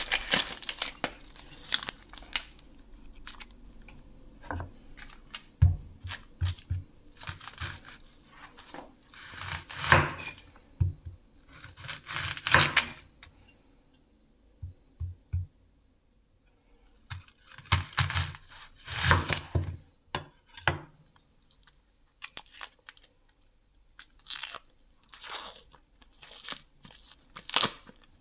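Kitchen preparation sounds of hands handling food packaging: irregular bursts of tearing and crinkling with short soft knocks, pausing briefly about halfway through.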